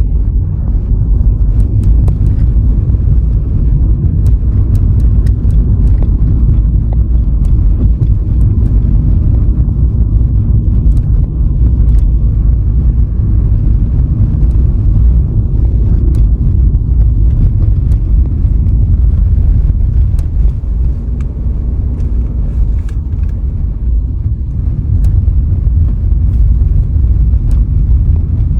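Car driving along a road: a steady low rumble of tyre and road noise, with scattered light ticks.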